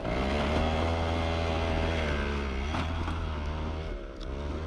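Moped engine running at speed on a dirt track, its pitch dropping slightly and the sound fading about four seconds in.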